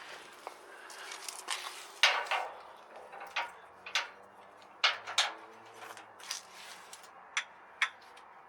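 An irregular series of short, sharp knocks and clacks, about nine over several seconds, as of hard objects being handled and set down.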